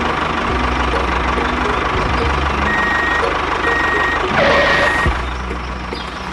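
Small vehicle engine running steadily, with a reversing alarm beeping three times about halfway through.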